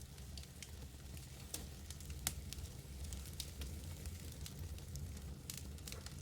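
Wood fire crackling in a fireplace: a low steady rumble of the flames with scattered sharp pops and snaps, the loudest about two seconds in.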